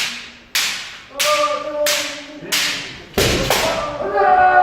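Kendo sparring: bamboo shinai cracking against each other and against armour, about six sharp hits in quick succession, some followed by a brief ring. Near the end comes a sustained voice-like sound that may be a fencer's kiai shout.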